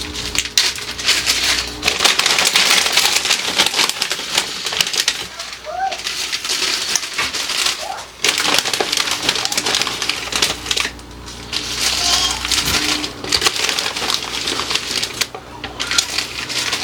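Chip bags and small plastic baggies crinkling and rustling as chips are portioned out by hand, a dense crackle that eases off briefly a few times.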